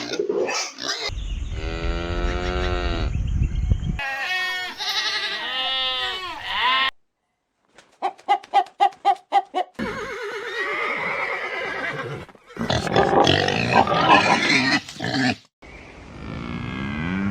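A run of different farm animals calling, cut together one after another: long wavering pitched calls, a quick series of short calls about halfway, and a low call starting to build near the end.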